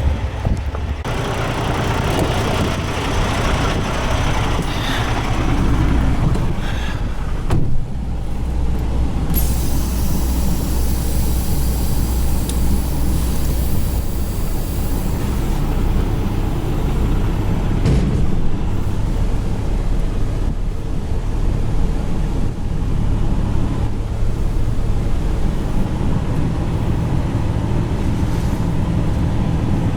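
Semi truck's diesel engine running steadily with a low hum, with a click about seven seconds in and a hiss of air lasting several seconds just after.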